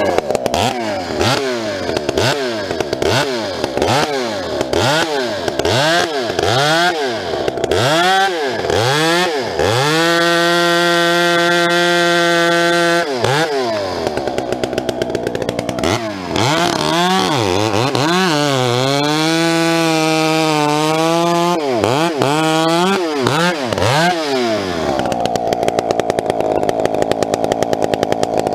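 Vintage two-stroke chainsaw bucking firewood: the throttle is blipped up and down about once a second, then held wide open at a steady high pitch for a few seconds. Later the engine's pitch sags and recovers as the chain loads up in the cut, more blips follow, and it settles to a steadier, lower running near the end.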